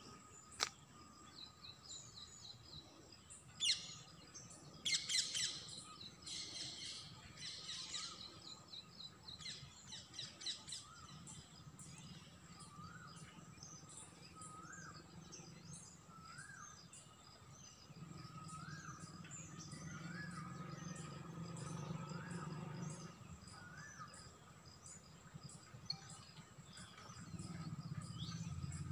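Wild birds calling and chirping: a cluster of quick high chirps a few seconds in, then a short rising note repeated about every second and a half. A steady high ticking runs underneath.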